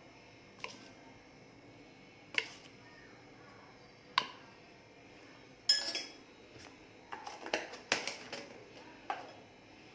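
A metal spoon clinking against a bowl and spice containers as spices are spooned into a mixing bowl. There are single sharp clinks every second or two, one ringing brightly just before the middle, then a quicker run of clinks and taps near the end.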